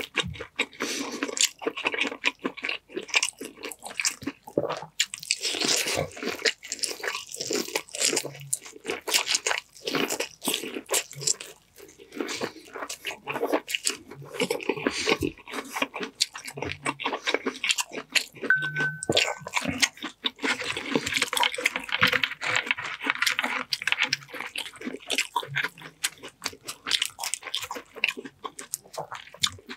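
Close-miked eating: chewing sweet corn and boiled seafood with many crisp, irregular crunching clicks, then the shell of a cooked blue crab being broken apart by hand near the end.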